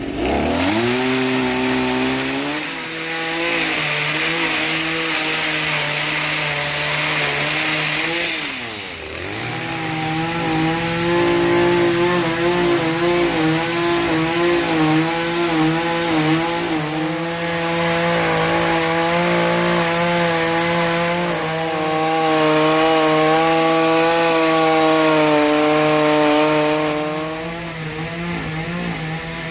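Chainsaw revving to full throttle and cutting through fallen tree wood, its pitch wavering under load. The throttle eases off briefly about a third of the way in, then the saw revs back up, and it slows near the end.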